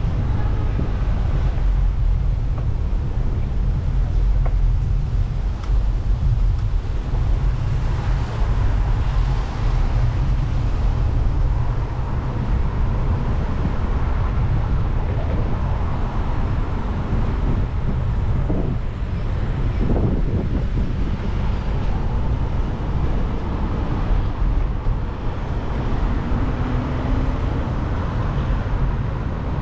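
Wind rumbling steadily on the microphone during a bicycle ride, with street traffic noise underneath.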